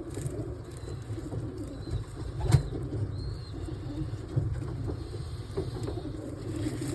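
Domestic pigeons cooing in a low, continuous murmur, with one sharp click about two and a half seconds in.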